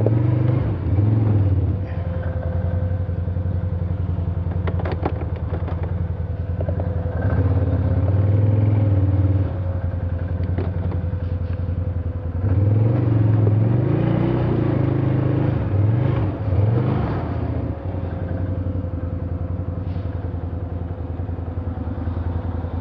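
Small off-road vehicle engine running under load, revving up in several pushes, near the start, about 7 to 9 seconds in, and again from about 12 to 17 seconds in, dropping back to a lower steady run in between.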